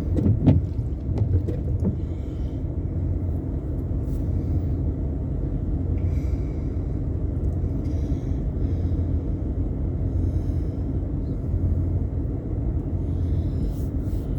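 Car running with its defrost fan blowing, heard from inside the cabin as a steady low rumble and hiss. A few light clicks come in the first two seconds.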